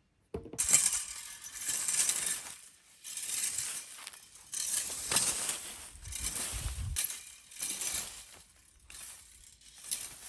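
Repeated crunching and rustling, coming in swells of about a second each after a sudden start.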